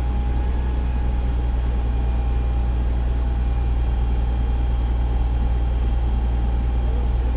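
Fire engine's diesel engine running steadily at idle, heard from inside the cab as a constant low drone with a faint steady whine above it.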